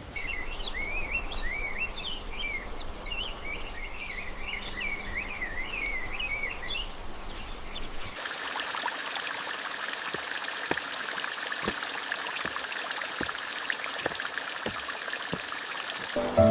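Forest ambience: a steady rush like running water with birds twittering for the first seven seconds or so. About eight seconds in it switches abruptly to a steady, high insect chirring with scattered sharp clicks.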